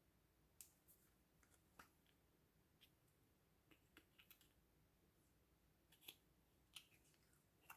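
Faint, scattered small clicks and pops at irregular intervals, typical of slime being pressed and pulled by hand.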